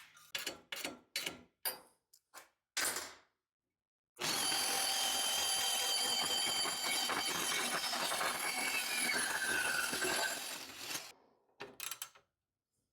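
A few knocks and clicks, then a portable band saw (Porta-Band) runs for about seven seconds cutting exhaust tubing in a pie-cut jig, with a steady high whine, and fades out. The cut kicked because the jig's pivot bolt was not set tight enough.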